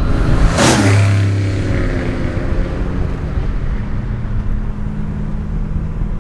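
1967 Pontiac GTO's stroker V8 breathing through Pypes Turbo Pro mufflers, with a sharp falling burst just under a second in, then running and revving steadily.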